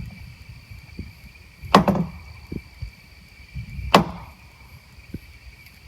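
Two loud wood knocks about two seconds apart, each ringing out briefly: call taps, wood struck hard as a signal to draw a reply from the woods.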